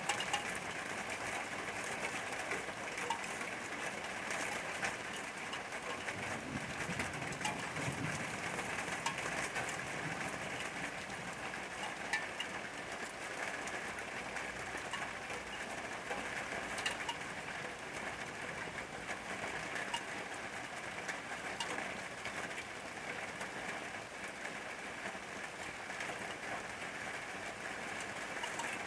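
Steady rain falling, with individual drops ticking sharply on a hard surface now and then.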